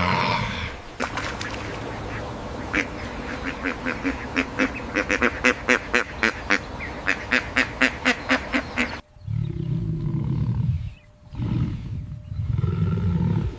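A duck quacking in a quick run of short calls that grows faster and louder for several seconds, then three long, deep growling animal calls.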